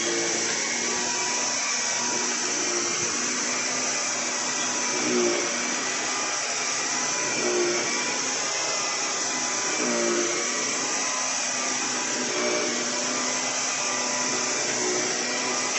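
Electrolux Olympia One 1401B canister vacuum cleaner running steadily with its power head, a constant rush of air with a steady motor whine, swelling slightly every two to three seconds.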